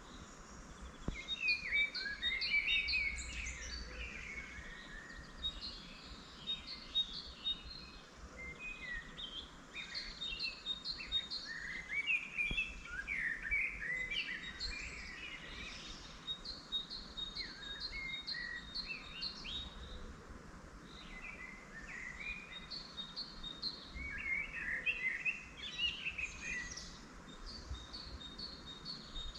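Several songbirds singing at once, overlapping phrases of quick, evenly repeated high notes and lower, falling warbled notes, with short gaps between bursts.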